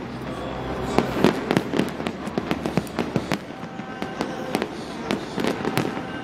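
Fireworks display bursting overhead: a rapid, continuous barrage of sharp bangs and crackles, several a second, over a steady rumble, with the loudest bangs about a second in.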